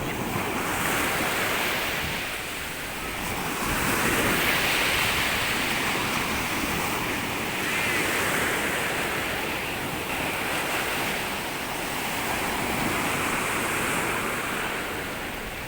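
Sea surf washing onto a sandy beach: a steady rush of waves that swells and eases every few seconds.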